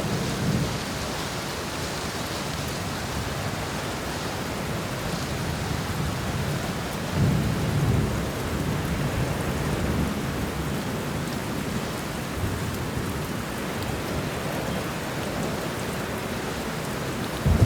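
Steady heavy rain falling, with low rolls of thunder swelling and fading, the strongest about seven to eight seconds in.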